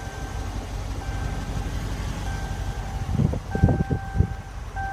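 Car interior warning chime sounding a steady single-pitched tone that repeats about every second and a quarter, over a constant low rumble. A few dull low thumps come just past the middle.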